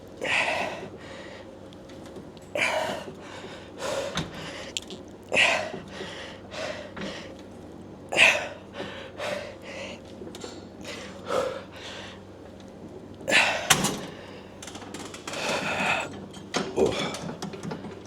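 A man's forceful breathing during a set of leg extensions: short, sharp exhales and gasps about every one to two seconds, one per rep, coming closer together and longer near the end as he tires.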